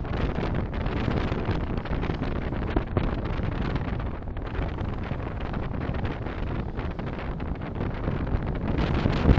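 Steady low rumble of a car driving: road and engine noise mixed with wind noise, without distinct events.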